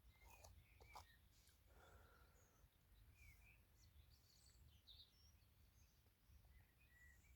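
Near silence with faint, scattered bird chirps and a few soft clicks early on.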